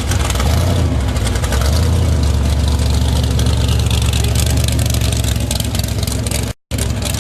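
Hot rod engine running loudly through open exhaust headers, a steady rumble with a rapid, choppy exhaust pulse. The sound drops out completely for a moment near the end.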